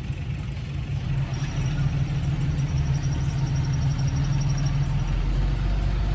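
Heavy diesel engine of earthmoving machinery running steadily, its low rumble growing somewhat louder about two seconds in. A faint high-pitched pulsing tone sounds over it for a few seconds.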